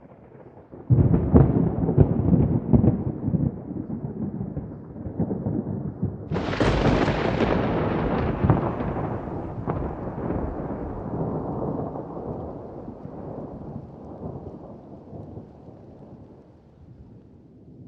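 Thunder: a deep rumble starts suddenly about a second in, then a sharp crack at about six and a half seconds rolls on and slowly fades away.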